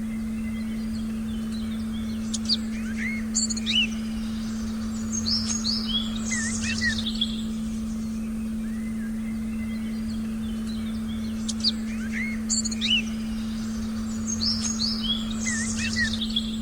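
A steady low sustained tone plays under forest birdsong. The birds give clusters of chirps and short whistled calls, and the same run of calls comes round again about nine seconds later, like a looped recording.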